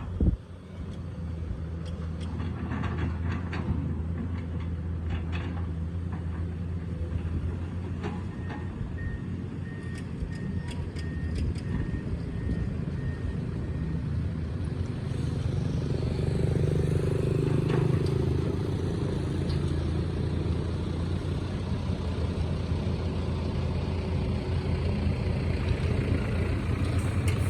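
Excavator's diesel engine running steadily, working harder for a couple of seconds past the middle, with several sharp metal clanks in the first half and a pulsing high beep for a few seconds.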